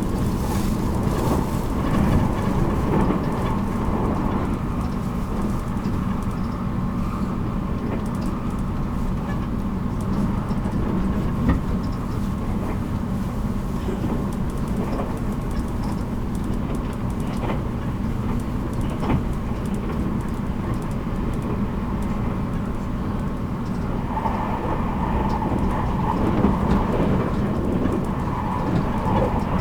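Running noise of a JR Kyushu 783 series electric train heard from inside its motor car MoHa 783-13: a steady rumble of wheels on rail with a low hum. About three quarters of the way through, a higher tone grows stronger.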